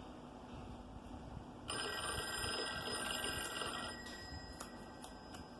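Telephone ringing: one ring of about two seconds starting near the two-second mark.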